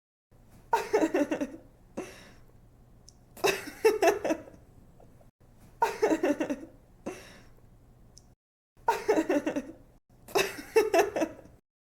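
A young woman laughing in five short bouts, each a quick run of breathy "ha" pulses lasting about a second.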